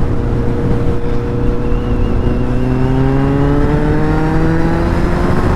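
Superbike engine running under way, its pitch climbing slowly and steadily as it accelerates.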